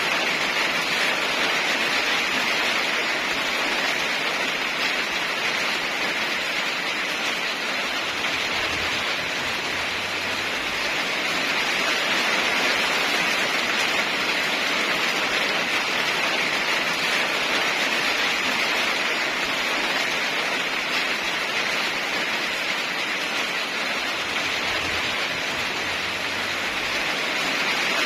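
Steady rain falling: an even, unbroken hiss that rises and falls only slightly in loudness.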